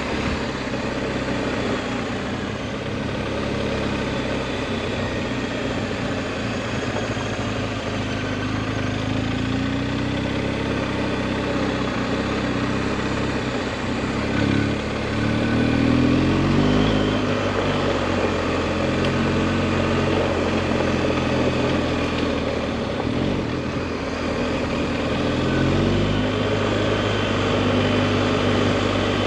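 Adventure motorcycle engine running under way on a dirt road, its pitch rising and falling a few times with throttle and gear changes, around ten seconds in, again around sixteen seconds, and near the end.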